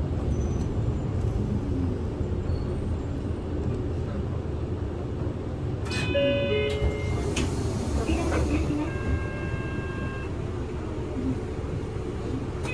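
Interior of a Kyoto City bus driving: a steady low engine and road rumble, with a short electronic chime of several tones about halfway through.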